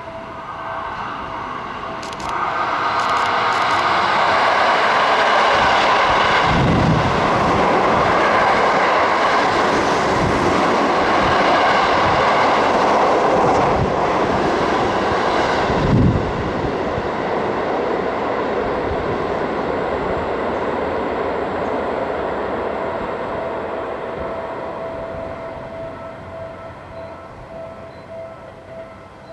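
Seibu electric train running through the station. The rush of wheels on rail rises about two seconds in, stays loud for over ten seconds with a couple of low thuds, then slowly fades away. A steady high tone sounds throughout.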